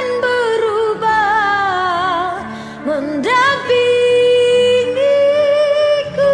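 A singer's high, drawn-out vocal line with vibrato over a ballad backing track, rising into a long steady held note a little past halfway.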